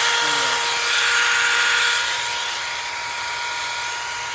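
SeeSii 6-inch cordless mini chainsaw's electric motor running with a steady whine while its chain cuts through a tree branch; the lowest tone of the whine drops out about two seconds in.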